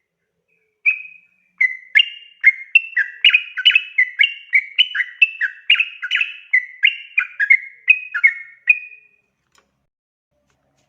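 Yellow-vented bulbul singing a long, rapid 'ropel' song: a bubbling run of short two-pitched notes, two or three a second, lasting about eight seconds and then stopping.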